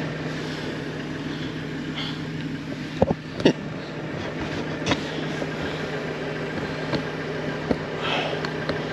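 An engine running steadily in the background with a constant hum, and a few sharp metallic clicks and knocks about three seconds in and again later.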